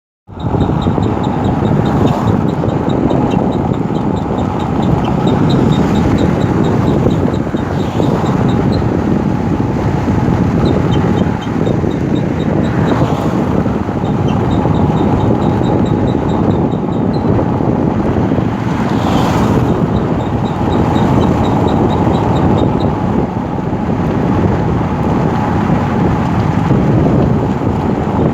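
Car brake pads squealing in short, high chirps repeating several times a second, coming and going in stretches, over steady road and engine noise from the moving vehicle.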